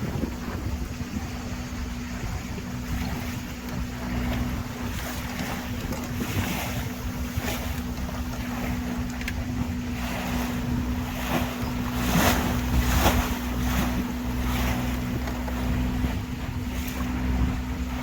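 Tour boat's engine running at a steady drone, with water rushing and splashing against the hull and wind on the microphone. The water noise swells in surges and is loudest about twelve seconds in.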